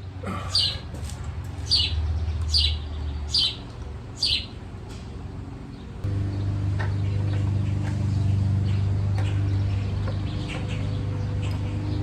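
A bird calling five times in the first half, short high chirps falling in pitch, under a second apart, over a steady low hum. About halfway through the hum steps up in level and runs on evenly.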